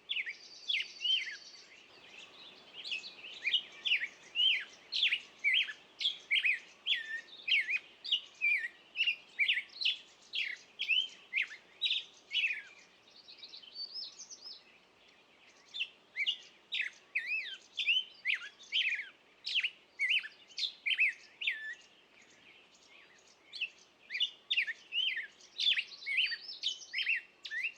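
Songbirds chirping: a rapid, steady string of short, sharp chirps, easing off briefly about halfway through and again later before picking up.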